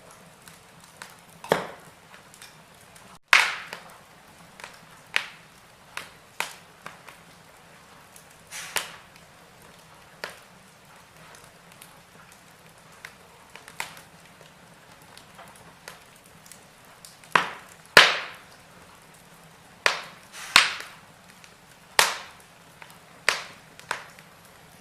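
Wood fire crackling in a fireplace: irregular sharp pops and snaps over a faint steady hiss. One loud pop comes about three seconds in, and a cluster of loud pops follows in the last third.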